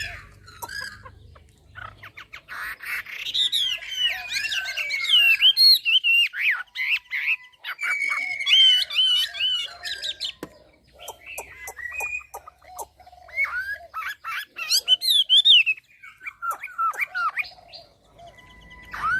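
Chinese hwamei singing: loud, varied phrases of slurred, rising and falling whistles, delivered in several bursts with short pauses between them.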